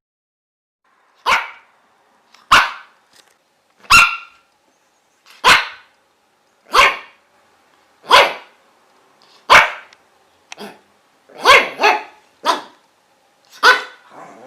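A dog barking in single, evenly spaced barks about every second and a half, coming quicker and in pairs near the end.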